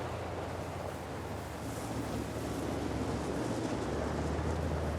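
Off-road SUV driving, a steady engine drone under a noisy haze that grows a little louder after about two seconds.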